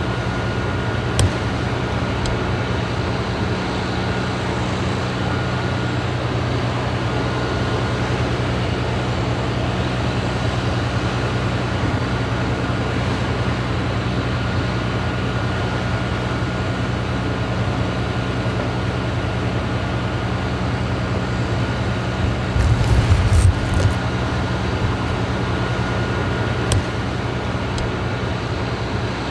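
Steady drone of an idling fire engine, with an even low hum and a faint continuous whine. A louder rumble swells briefly about 23 seconds in, and a couple of sharp clicks stand out.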